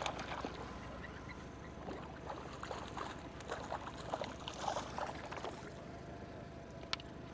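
Small boat on the water: a run of light knocks and splashes against the hull over steady low background noise, then one sharp click near the end.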